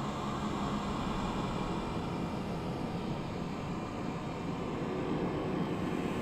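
An approaching train: a steady noise of wheels on rails that grows slowly louder.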